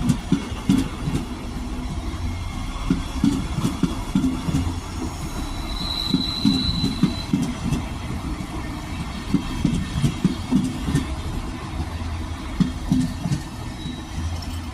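Train hauled by a class 185 electric locomotive rolling past, its wheels clattering over the rail joints in an uneven stream of knocks over a steady rumble. A brief high wheel squeal comes about six seconds in.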